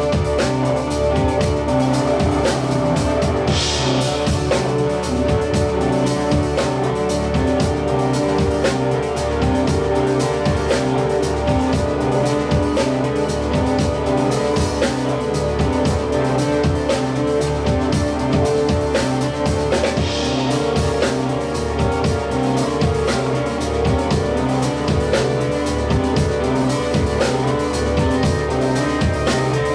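Live band playing an instrumental passage with a steady drum beat.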